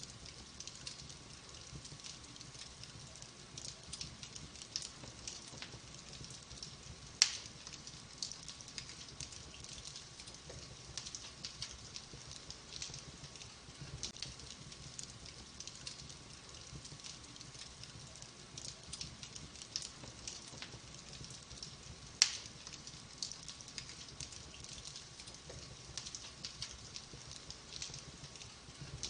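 Wood fire of burning logs crackling softly with a steady run of small ticks, and two sharp louder pops, one about a quarter of the way in and one about three quarters of the way in.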